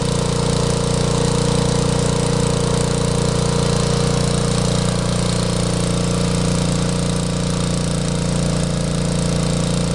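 Small garden tractor's 6 HP Tecumseh engine running steadily, driving a 32-inch Wheel Horse snowblower.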